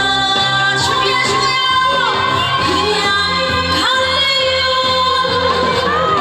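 Trot song performed live: a woman sings long, bending notes over a backing track with a steady bass beat.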